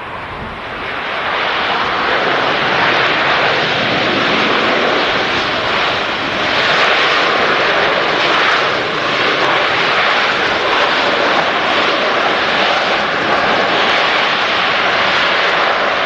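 Large jet airliner flying low on its landing approach: a loud engine roar that swells over the first two seconds and then holds steady.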